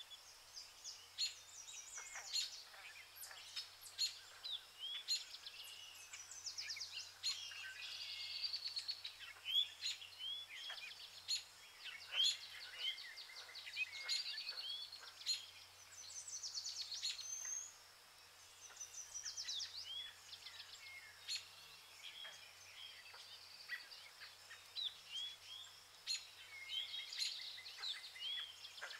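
Several birds singing and calling at once: overlapping quick upswept chirps and fast rattling trills.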